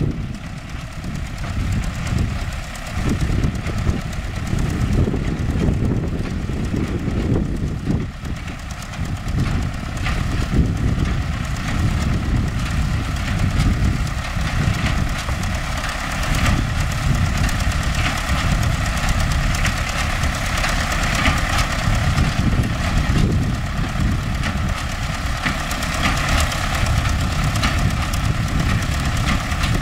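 MTZ-5 tractor's diesel engine running steadily, driving a hay baler, with a steady mechanical whine from the working machinery.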